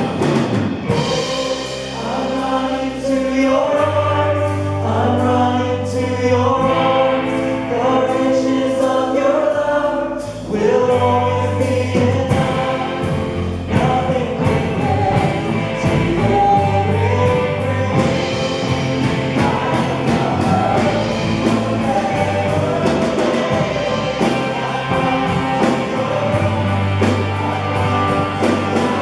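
Live church worship music: a group of voices singing together over a band, with steady bass notes and guitar.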